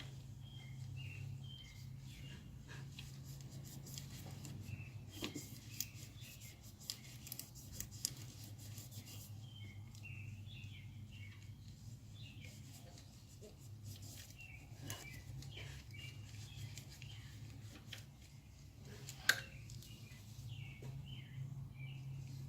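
Intermittent scrubbing and clicking as a dirty throttle body is cleaned by hand, busiest a few seconds in, with one sharp click near the end. Small birds chirp throughout over a steady low hum.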